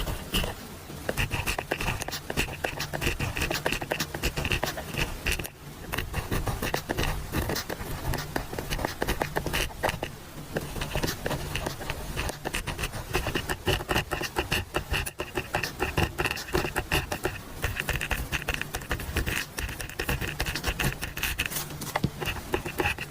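Pen writing on paper: a continuous run of quick scratching strokes, with brief pauses about five and a half and ten seconds in.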